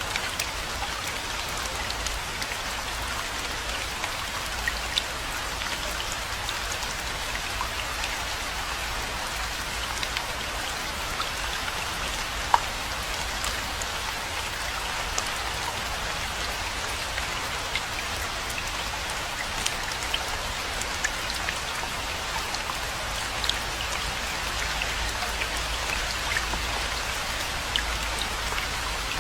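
Steady rain falling, an even hiss dotted with the clicks of individual drops striking nearby surfaces, over a low rumble.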